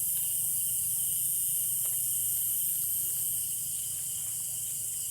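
Night insect chorus of crickets and other insects: a steady high-pitched shrill with a thinner unbroken tone beneath it, over a faint low hum.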